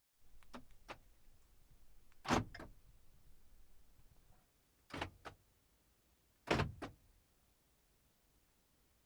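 A few faint, separate clicks and knocks: two small clicks, then three louder knocks a couple of seconds apart, the last two each followed by a lighter click.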